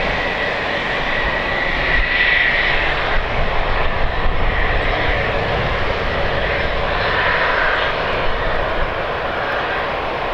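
Airliner engines running: a steady loud rush with a high whine that swells and fades. Gusts of wind buffet the microphone underneath.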